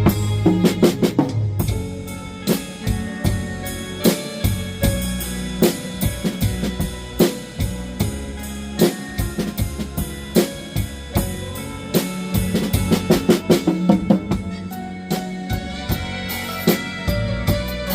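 Drum kit played to a blues practice track, with bass drum, snare and rimshot strokes and improvised fills over the track's bass and chord notes.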